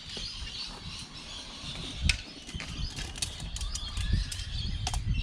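Rustling and scattered clicks and knocks of camp gear being handled, over a low wind rumble, with one sharp click about two seconds in.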